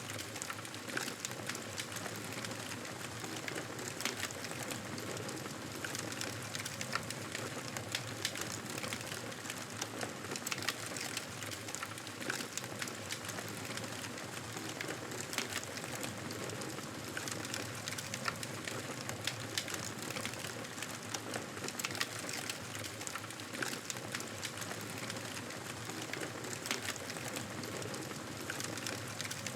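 Campfire crackling: a steady hiss of burning wood with frequent small, sharp pops.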